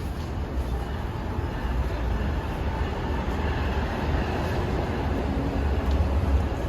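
A train running on the rails through the station: a steady rumble that grows a little louder toward the end.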